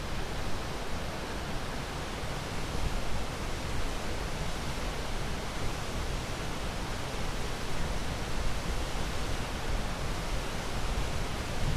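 Ocean surf as a steady, even rushing hiss, without distinct swells or breaking crashes.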